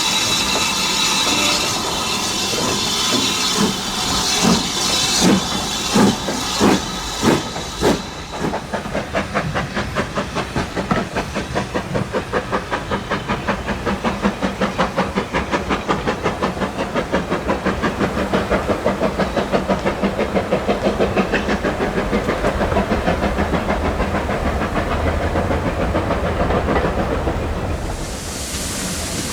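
Steam locomotive starting away: a loud hiss of steam, then exhaust chuffs that begin slow and heavy and quicken into a steady, rapid beat.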